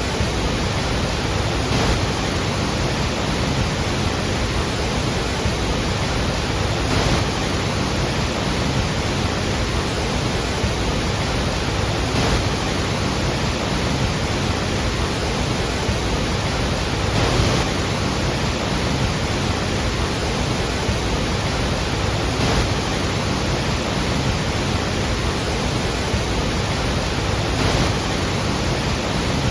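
Steady, heavy roar of a large waterfall, water crashing continuously, with a slight surge about every five seconds.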